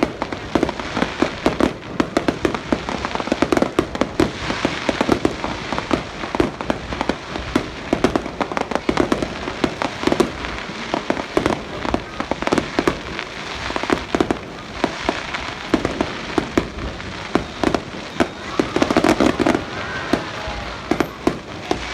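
Fireworks display: a rapid, unbroken run of bangs and crackling bursts, several a second.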